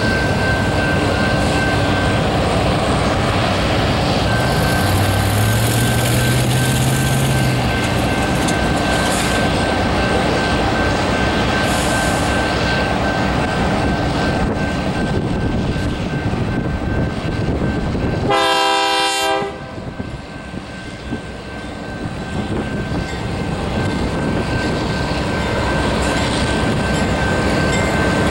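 Freight train led by two GE C44-9W diesel locomotives moving slowly toward a level crossing, a steady rumble throughout. About 18 seconds in, the lead locomotive's air horn gives one short blast of about a second. Around 5 seconds in, a passing road vehicle's engine rises in pitch.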